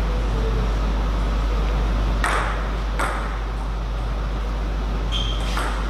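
Table tennis ball clicking off bats and table, four sharp hits with the first about two seconds in and the last two close together near the end, some with a short high ping. A steady low hum runs underneath.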